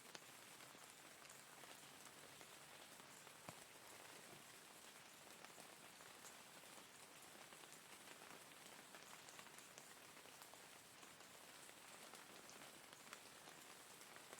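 Faint, steady rain falling, with scattered individual drops ticking on a surface and one sharper drop about three and a half seconds in.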